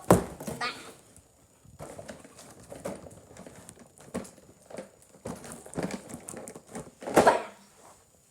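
Cardboard and plastic packaging being handled and pulled apart: scattered rustles, scrapes and knocks, with a sharp knock at the start and a louder burst about seven seconds in.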